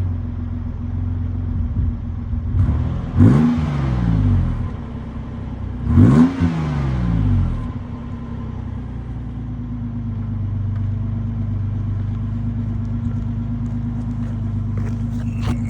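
2004 Nissan Frontier's 3.3-litre V6 exhaust through a Flowmaster FX muffler with an axle-dump exit, idling steadily. It is revved twice, about three seconds in and again about three seconds later; each time the pitch climbs quickly and falls back, then it settles into an even idle.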